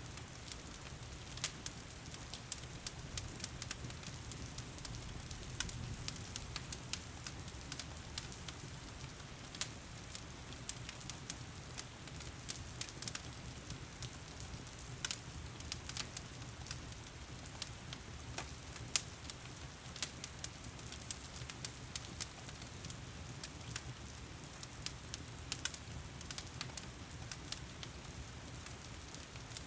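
Wood fire crackling, with frequent irregular sharp pops, over the steady hiss of heavy rain.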